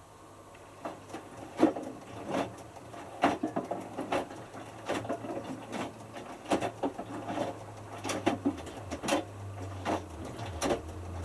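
Hotpoint Futura HF8B593 washing machine drum tumbling a small load of t-shirts, starting about a second in, with knocks and swishes roughly once a second over the low hum of the drum motor.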